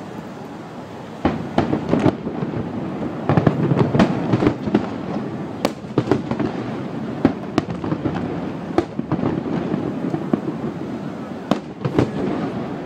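Aerial firework shells bursting, many sharp bangs at irregular intervals over a continuous crackle and rumble of overlapping bursts.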